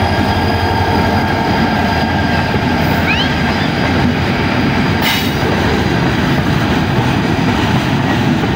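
Freight train hauled by two diesel locomotives, one of them dead and towed, passing close by: a steady, loud rumble of engine and steel wheels on the rails, with a brief sharp noise about five seconds in.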